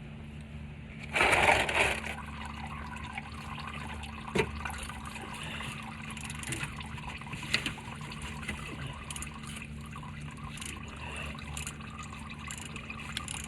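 Engine oil draining from the sump into a drain pan: a steady pouring trickle, with a louder gush and splash about a second in. A few sharp clicks sound over it, and a steady low hum runs underneath.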